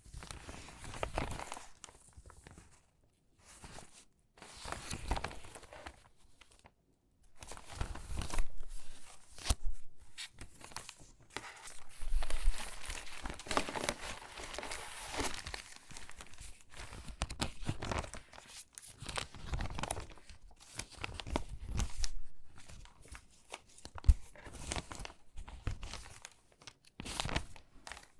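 Hands sorting stiff, water-damaged magazine pages: irregular crinkling and rustling as the warped paper is lifted, bent and laid down, with short pauses between handfuls.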